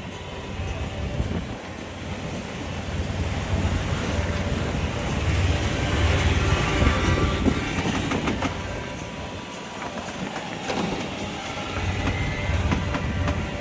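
Wind buffeting the microphone on a sailboat under way, a steady low rumble and rushing over many small rattles and knocks. The loudness swells and eases every few seconds.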